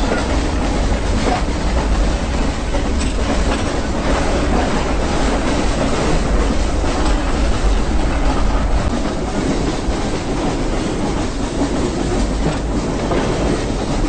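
Nilgiri Mountain Railway (Ooty mountain train) running on its metre-gauge track: a steady, loud rumble with faint wheel clacks repeating over the rail joints.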